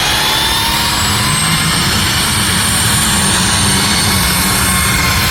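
Competition pulling vehicle's engine running hard under load, loud and steady, with a high whine that slowly rises in pitch.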